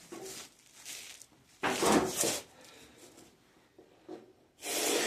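Hands wrestling with the stubborn cap of an oil container, with loud bursts of rubbing and scraping about two seconds in and again near the end, and quieter handling between.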